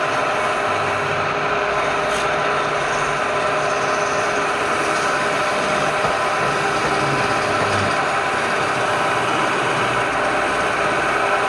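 Wood lathe running steadily, its motor giving a constant whine over a dense noise.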